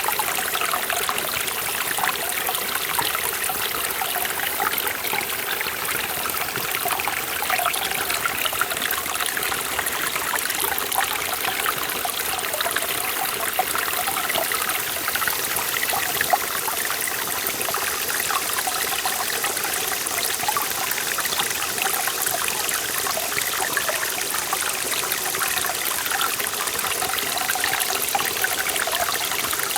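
Forest valley stream flowing over rocks: a steady babble of running water with many small trickles and splashes, mostly high and bright, unchanging throughout.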